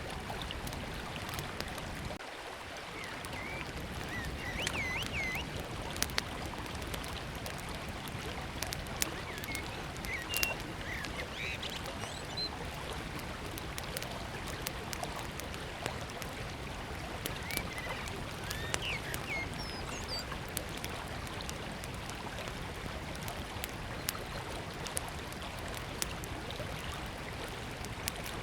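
River water flowing steadily, with the sharp crackles and pops of a small wood campfire scattered throughout and a few short bird chirps.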